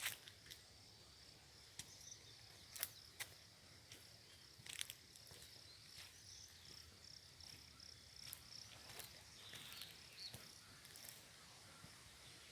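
Faint rural outdoor ambience: a steady, high pulsing trill with a few short chirps, and scattered sharp clicks.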